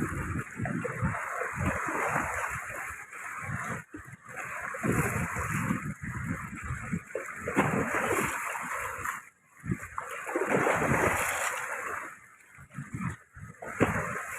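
Sea waves washing onto the shore, swelling and fading several times with short lulls between surges.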